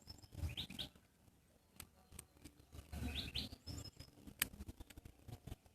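Birds chirping faintly: two quick pairs of short high chirps, one about half a second in and one about three seconds in, with a few sharp clicks between them.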